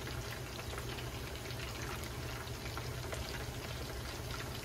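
Karaage chicken pieces frying in shallow oil in a pan: a steady sizzle with scattered small crackles.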